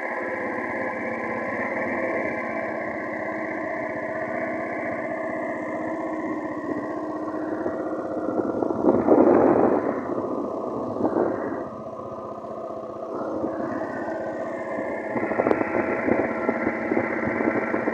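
Small petrol engine of a long-tail boat motor kit running. It is revved up about eight seconds in, drops back at around twelve seconds, then picks up again near the end.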